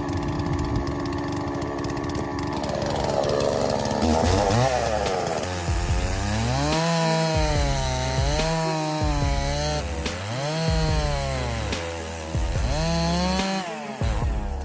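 Bow-bar chainsaw running and cutting wood. From about six seconds in, its engine note sags and rises again every second or two as the chain bites in and frees up.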